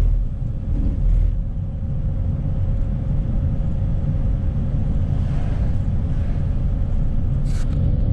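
Steady low rumble of a motorhome's engine and tyres on the road, heard from inside the cab while driving, with a faint steady hum throughout and one brief click near the end.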